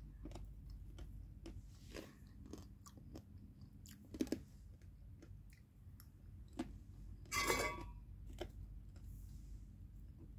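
Popcorn being chewed close to the microphone: a run of small, irregular crunches, with one longer, louder crunch about seven and a half seconds in.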